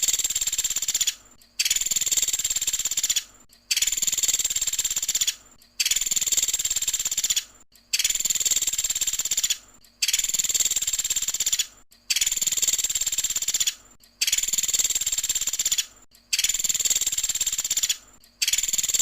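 Pelatuk sampit bird singing rapid, high trilled 'tembakan' phrases, each about a second and a half long with a short break between, repeating evenly about every two seconds.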